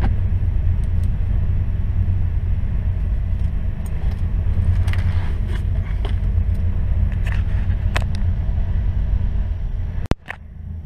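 1986 Porsche 944's 2.5-litre four-cylinder engine idling with the car standing still, a steady low rumble, with a few light clicks and a sharp click about ten seconds in.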